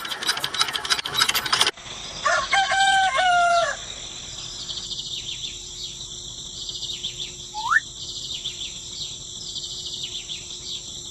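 A rattling clatter for the first second or so, then a rooster crows once, followed by small birds chirping over a steady hiss, with one short rising whistle near the end.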